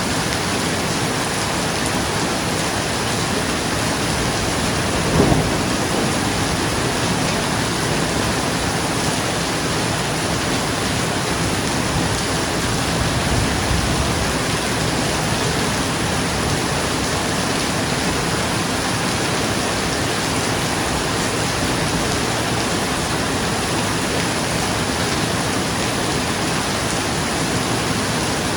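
Steady rain falling on a roof, with a sudden clap of thunder about five seconds in and a softer roll of thunder around the middle.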